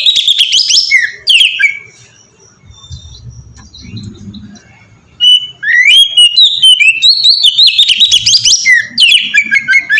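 Oriental magpie-robin (kacer) singing loudly in quick varied phrases of whistled slides and rapid harsh notes. The song comes in two bouts, with a pause of about three seconds between them.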